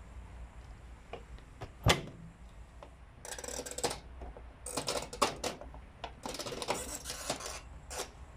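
Hand-handling noises on hard mechanical parts: a few clicks, a sharp knock about two seconds in, then three bursts of clicking and rattling.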